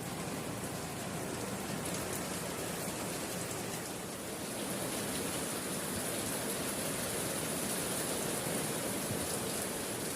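Steady rainfall: an even hiss with a fine patter of drops.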